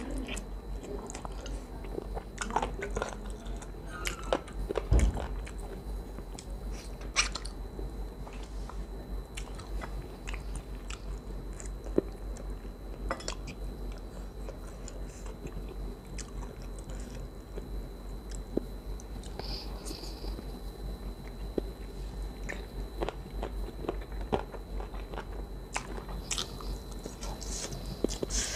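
Close-miked chewing and biting: wet mouth sounds with irregular sharp clicks and crunches as food is bitten and chewed. The loudest bites come about four to five seconds in and again near twelve seconds.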